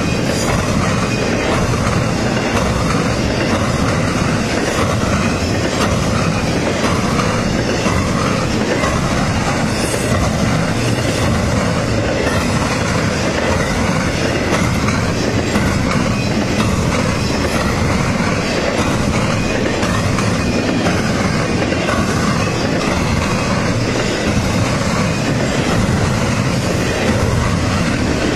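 Freight train rolling past, the cars' wheels clattering steadily over the rail joints.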